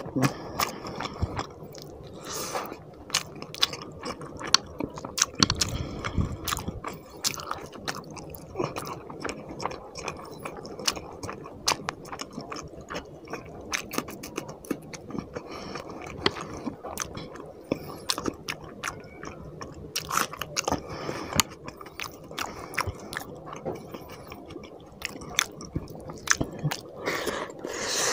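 Close-miked eating: wet chewing, lip-smacking and mouth clicks as rice and fish curry are eaten by hand, with many quick sharp smacks throughout.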